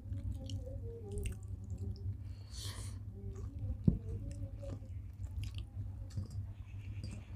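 People chewing and eating rice and vegetable curries, with wet mouth sounds and scattered small clicks. One sharp knock stands out a little past halfway.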